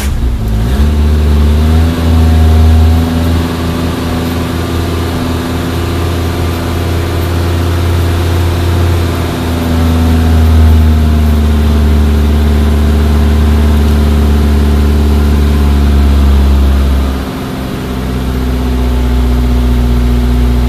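A Suzuki Samurai's 1.3-litre four-cylinder engine running just after starting, on a newly fitted Toyota 3K-C carburetor that has not yet been adjusted. It holds a fast idle near 3000 rpm, the revs rising a couple of times and dipping briefly about seventeen seconds in. It is heard from inside the cab.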